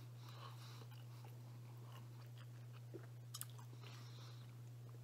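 Faint chewing and swallowing while drinking from a plastic shaker bottle, with a few soft clicks about three seconds in, over a steady low hum.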